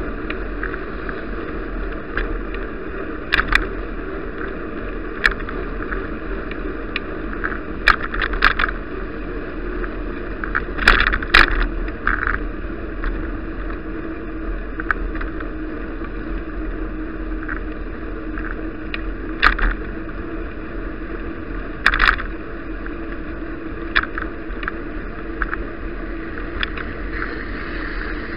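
Steady rushing of a bicycle ride heard through an action camera's microphone, wind and road noise together, with irregular clicks and knocks scattered through it.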